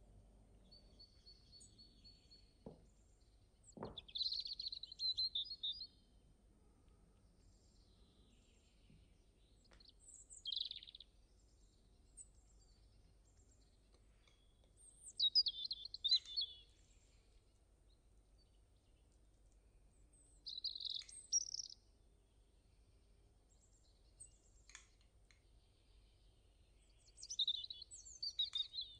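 Small birds chirping in five short bursts a few seconds apart, with a couple of faint knocks about three and four seconds in.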